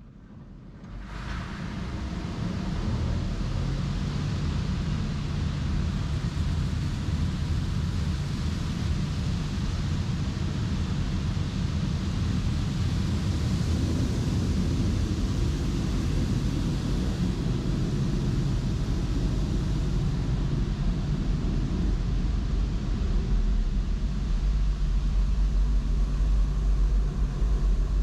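Touchless automatic car wash machinery starting up and then running steadily: a low motor hum under a loud rushing hiss of spray or blown air, building up over the first few seconds.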